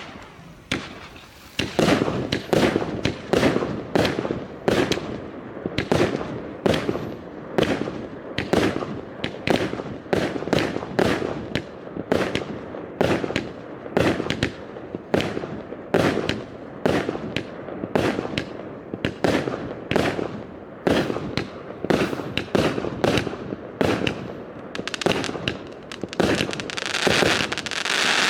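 Yeohwa 'Wyrm Surge' firework firing shot after shot in a steady sequence, about two sharp bangs a second, with a crackling hiss building near the end.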